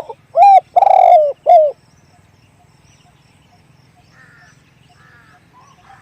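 Spotted dove cooing: one loud three-note call about half a second in, a short note, a long rolling middle note and a short falling end note. Faint small chirps follow a few seconds later.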